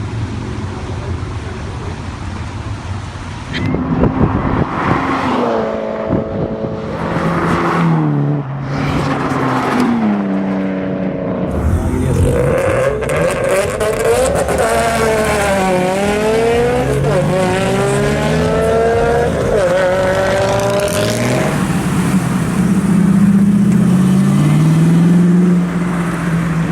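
Performance car engines revving hard across a few cut-together clips, the pitch climbing and dropping with throttle and gear changes, and swinging up and down repeatedly in the middle section.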